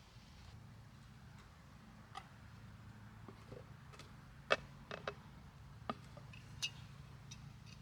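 Scattered light clicks and taps, irregular and about a dozen in all, the sharpest about four and a half seconds in, over a steady low hum.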